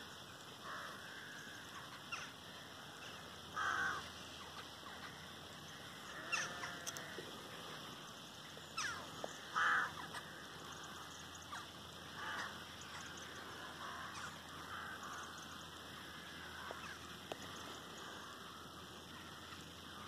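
Faint birds calling off and on, short calls every few seconds over a quiet outdoor background.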